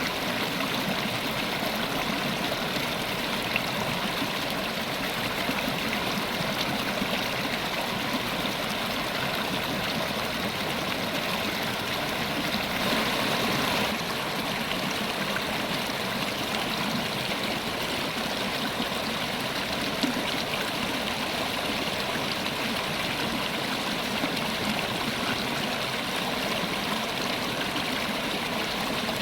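River water running, a steady continuous rush and gurgle, a little louder for about a second roughly halfway through.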